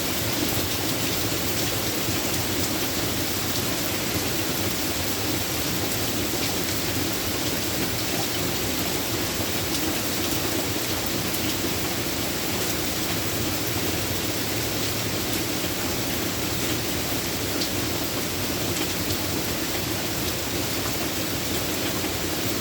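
Steady rain falling, an even hiss with scattered ticks of single drops striking a surface.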